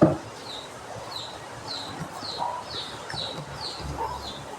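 A small bird chirping over and over, short falling chirps about two a second, with a few lower calls in between. A brief knock comes right at the start.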